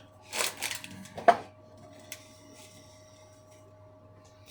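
Kitchen handling noises from working on a seasoned raw chicken: a couple of brief rustles and a sharp knock about a second in, then a click, over a faint steady hum.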